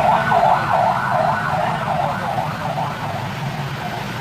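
An emergency vehicle siren wailing up and down in a fast yelp, about two to three sweeps a second, fading away about three seconds in, over a steady low rumble.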